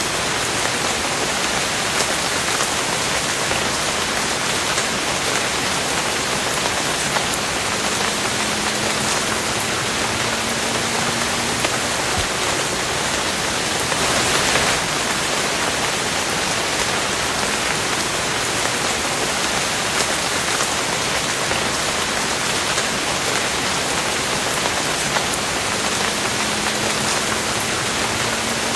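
Steady rain falling, a dense even hiss dotted with the sharp ticks of individual drops, swelling briefly about halfway through.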